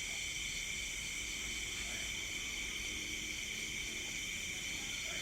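Steady, unbroken chorus of crickets and other night insects, with a fast pulsing trill in it. A few faint short calls sound low underneath.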